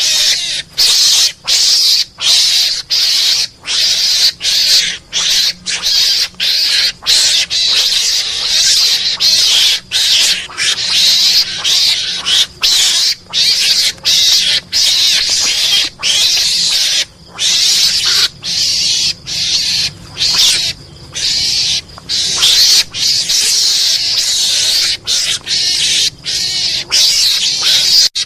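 Mongoose lure call: a fast run of harsh, hissing calls, one after another with only brief gaps between them, played to draw mongooses in.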